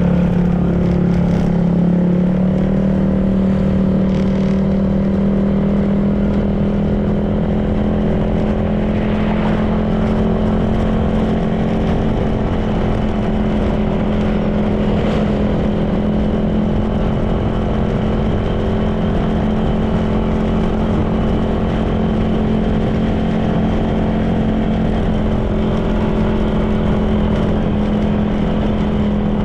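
Honda PCX 160 scooter's single-cylinder four-stroke engine running at a steady cruise, its pitch rising a little near the start and then holding even, with wind and road rumble on the microphone.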